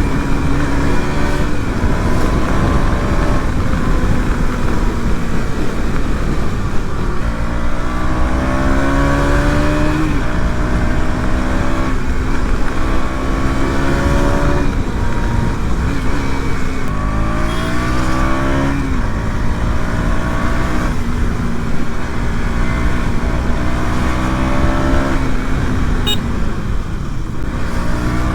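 KTM Duke 200's single-cylinder engine revving hard through the gears, its pitch climbing over a second or two and then dropping sharply at each upshift, several times, over a steady rush of wind.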